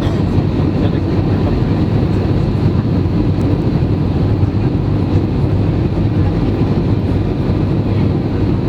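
Airbus A320 noise: a steady, unbroken rumble with faint high whining tones over it.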